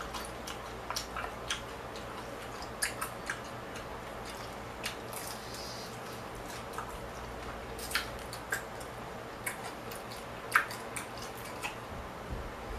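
Close-miked chewing and mouth smacking while eating a fried piece of food, with scattered small clicks and ticks over a steady low background noise.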